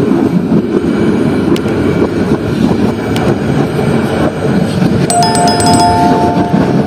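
Steady rumble of a train running along the track, heard from the locomotive cab. About five seconds in, a bell-like two-tone chime sounds for over a second, the subscribe-button notification effect.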